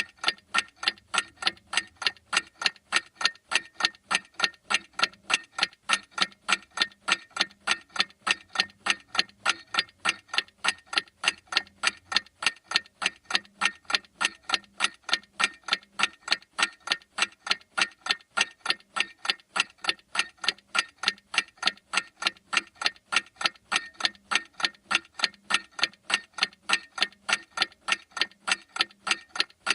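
Clock ticking with a steady, even rhythm of sharp ticks.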